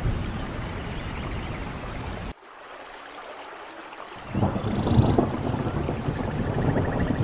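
Steady rain with a low rumble of thunder. The rumble cuts off abruptly about two seconds in, leaving a thinner rain hiss, then comes back louder about four seconds in.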